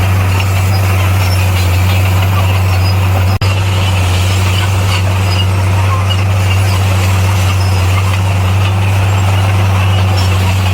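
A bulldozer's heavy diesel engine running steadily under load with a deep, even drone. It drops out for a split second about a third of the way in.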